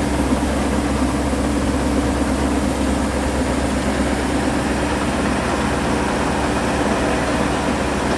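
Rice harvesting machine's engine running steadily, a constant, unchanging drone.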